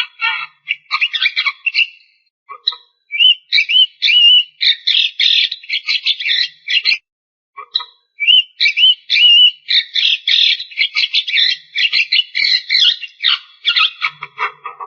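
Javan myna singing: a fast, harsh, chattering song mixed with short rising whistles, in two long phrases with brief pauses about two and seven seconds in.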